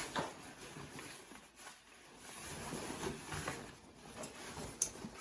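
Rustling and scraping of a tent in its bag being pushed down into the bottom of a canoe pack, with a short sharp click near the end.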